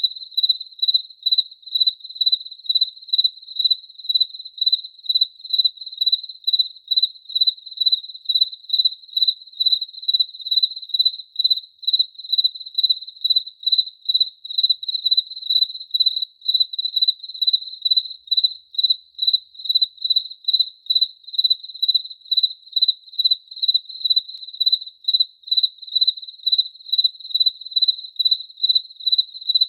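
A cricket chirping in a steady, even rhythm of about two and a half chirps a second, each chirp a single clear high pitch.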